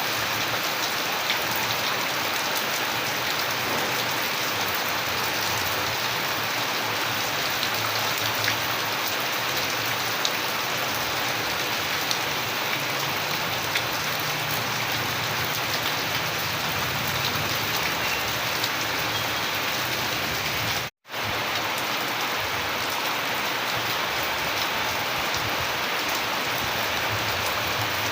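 Steady rain falling, an even hiss with scattered individual drop ticks. About three quarters of the way through, the sound drops out to silence for a split second and resumes.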